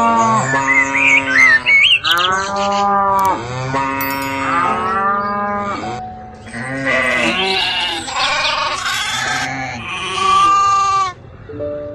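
Bleating livestock calling over and over, each call about a second long and arching up and down in pitch. From about halfway, higher, overlapping calls tangle together.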